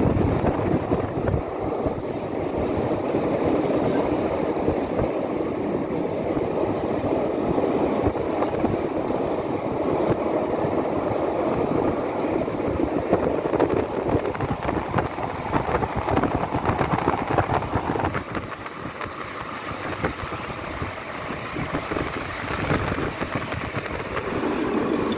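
Vintage narrow-gauge Roslagsbanan train running along the line, heard from an open carriage window: a steady rumble of wheels on rails with the carriage rattling. It eases off somewhat for a few seconds near the end.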